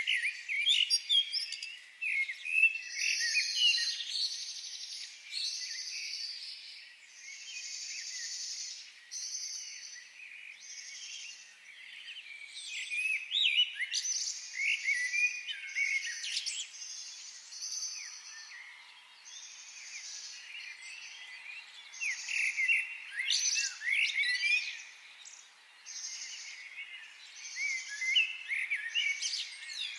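Forest birds chirping and singing, several at once, with quick warbled phrases over a high buzzing call repeated about every two seconds.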